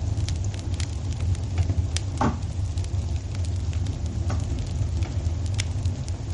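Wood fire crackling in a fireplace: scattered sharp pops and snaps over a steady low rumble, with one louder snap about two seconds in.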